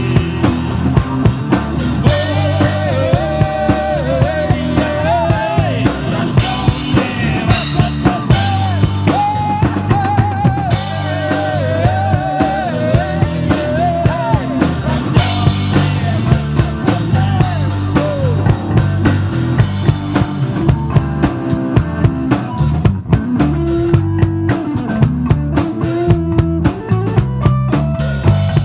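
Live rock band playing: drum kit keeping a steady beat under bass and guitar, with a wavering lead melody over the first half that drops away after about twenty seconds.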